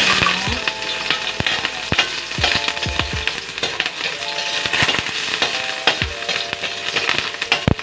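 Chopped onion and garlic hit hot cooking oil in a stainless steel wok and sizzle, the hiss starting suddenly as they go in. A metal ladle stirring them scrapes and clinks against the pan.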